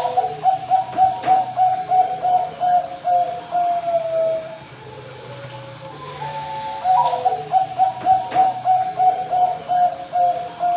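Zebra dove (Bangkok perkutut) cooing two full song phrases. Each phrase opens with a few short higher notes, runs into a quick rhythmic series of about a dozen coos and ends in a drawn-out falling note. The second phrase begins about six seconds in, over a steady low hum.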